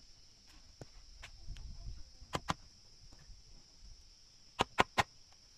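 Sharp knocks of wood being struck in carpentry work: a pair about two and a half seconds in and three quick, louder ones near the end, over a steady high buzz of insects.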